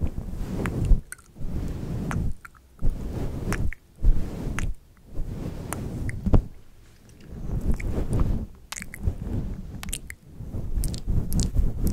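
Close-miked ASMR mouth sounds: wet smacking and clicking in irregular bursts, broken by short pauses.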